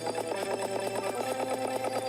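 Fast, evenly repeating electronic tones, a rapid trill at mid pitch over a steady low hum.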